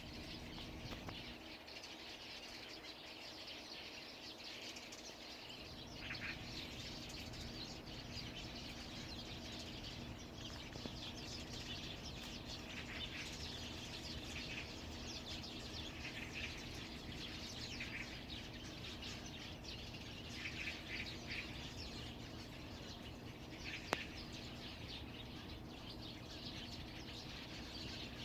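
Birds chirping and twittering, many short quick calls overlapping, over a steady low hum. A single sharp click sounds once near the end.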